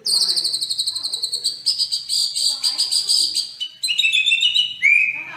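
Songbird song: rapid, high chattering trills, then a run of stepped falling notes and a clear whistled note near the end.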